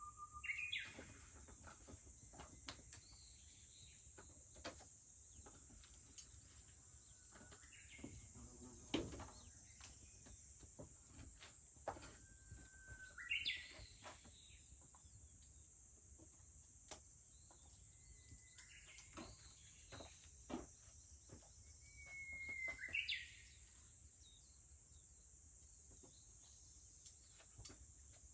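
Japanese bush warbler singing its 'hoo-hokekyo' song about four times, each a long held whistle breaking into a quick flourish, over a steady high drone of cicadas. Faint scattered crackles come from a wood campfire.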